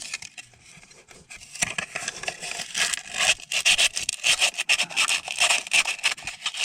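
Sandpaper rubbed by hand in quick back-and-forth strokes over the rusty metal of a snowmobile engine's stator and ignition pickup, cleaning off rust. The strokes start about a second and a half in after a quiet moment.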